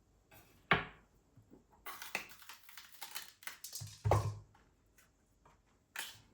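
Objects being handled and set down by hand: a run of light clicks and knocks, with a sharp knock about three-quarters of a second in, a patch of quick clatter, and a duller thump about four seconds in.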